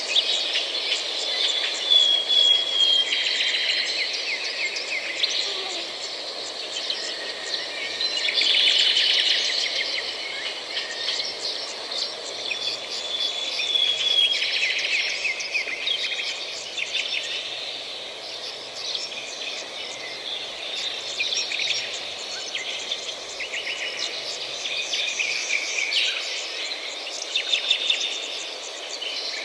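A chorus of many small birds chirping and twittering together, full of quick trills that overlap throughout. A clear whistled phrase stands out about two seconds in and again about thirteen seconds in.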